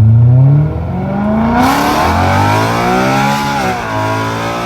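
BMW E93 M3's V8 running through a catless resonated X-pipe with the exhaust valves open, accelerating hard. The engine note climbs, drops at an upshift under a second in, climbs again to a high, raspy note about three and a half seconds in, then falls as the throttle is lifted.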